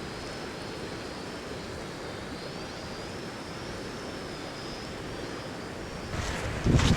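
A river flowing in a steady rush, with a thin high tone wavering faintly above it through the middle.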